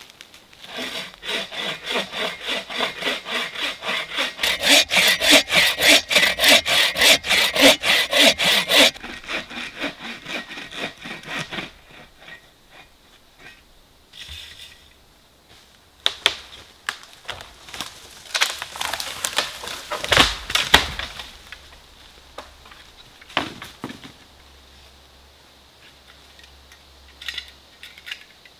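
Bow saw cutting through a dead standing tree near its base, with steady back-and-forth strokes that grow louder and quicker for several seconds, then slow and stop. Later the dead wood cracks and snaps, with a heavy thud about 20 seconds in as the tree comes down.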